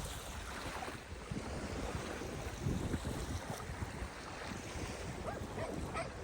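Small waves washing onto the beach with a light breeze, a steady hiss of surf. A few faint short pitched sounds come in near the end.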